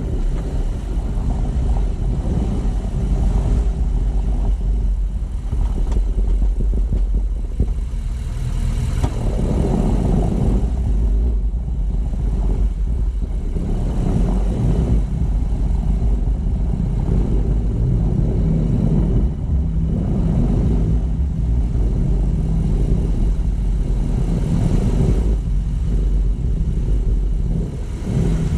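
A car driving on city streets: a continuous low rumble of engine and road noise that swells and eases as the car speeds up and slows.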